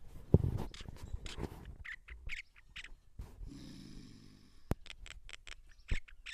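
Myna calling in a varied run of short chirps and sharp clicks, with a harsh rasping call lasting about a second and a half near the middle.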